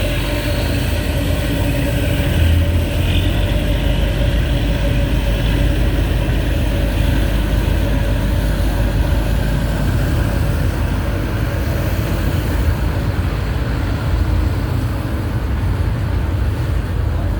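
Ferry engine running with a steady low rumble and a faint even hum over it.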